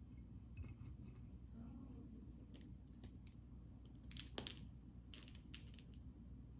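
A handful of short, sharp snips and clicks, the loudest about two and a half seconds in and another a moment later, with a small cluster near the middle, over a low steady room hum.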